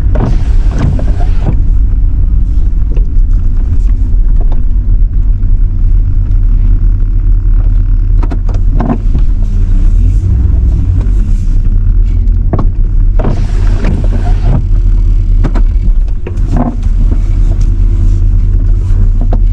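Truck driving slowly over rough ground, a loud steady low rumble of engine and tyres, with scattered knocks and two brief louder rushing bursts, one at the start and one about thirteen seconds in.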